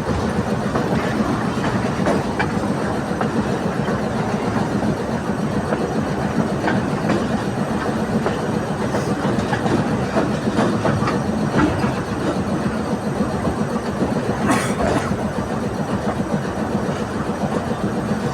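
Express passenger train passing at high speed: a steady loud rumble and rattle of wheels on the rails, with scattered sharp clicks over rail joints, one standing out near the end.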